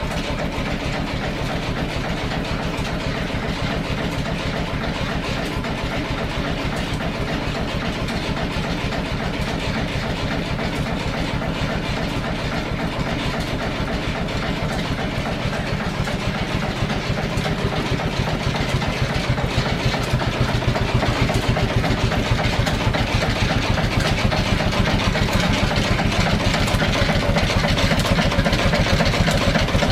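An engine running steadily with a fast, even beat; it grows a little louder a bit over halfway through.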